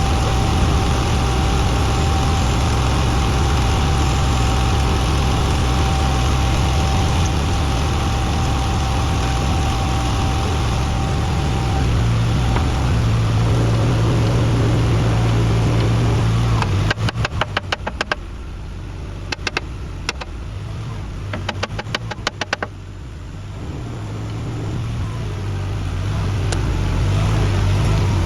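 An engine running steadily. About two thirds of the way through, a run of rapid clicks comes in and the running sound drops for several seconds, then builds back up to full level near the end.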